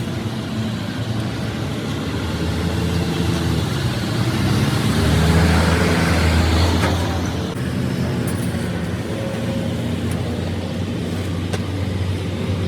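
A motor vehicle's engine running steadily, growing louder for a few seconds in the middle and then easing back.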